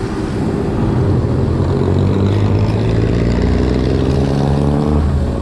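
Motor vehicle engine running close by in road traffic: a loud, steady drone.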